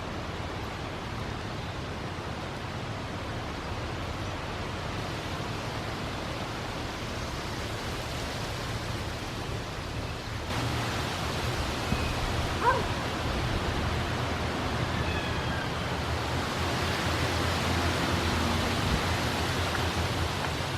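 Steady rushing noise, like wind on the microphone, over a low steady drone from the inland cargo ship's engine. The noise grows louder about halfway through, and a single short rising chirp stands out just after that.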